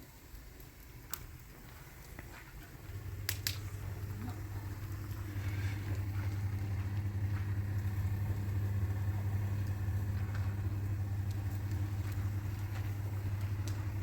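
A few clicks, then a washing machine's motor starts about three seconds in and runs with a steady low hum.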